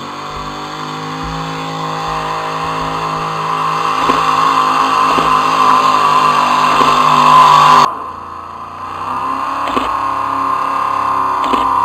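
Pulling tractor's engine running hard under load, growing steadily louder for about eight seconds, then throttled back abruptly before building up again near the end.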